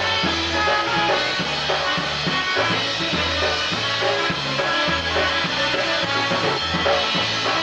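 Live polka band playing an instrumental passage, with a steady bass-and-drum beat under the melody instruments.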